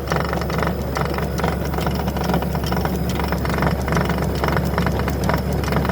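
Toro PowerMax E24 60V two-stage electric snowblower running on high: a steady motor hum with irregular clinking and clonking from the auger and impeller housing, which the owner thinks comes from the inner impeller.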